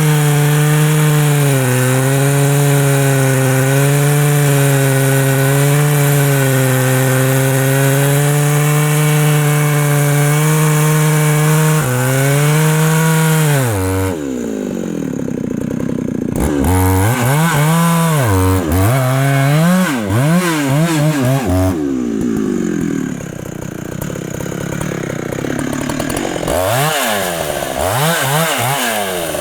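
Large two-stroke Husqvarna chainsaw cutting wood at full throttle, its pitch held steady. About halfway through it comes out of the cut, drops back and is revved up and down in a series of short blips, with quieter idling between them.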